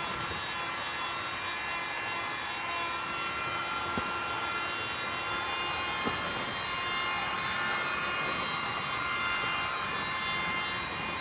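Electric heat gun running steadily, its fan motor giving an even whine over a hiss of air, heating barrel plastic so it can be bent into a canoe rib. Two light knocks about four and six seconds in.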